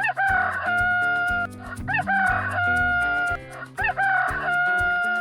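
Rooster crowing three times in a row, each cock-a-doodle-doo rising and then held for about a second and a half, over background music.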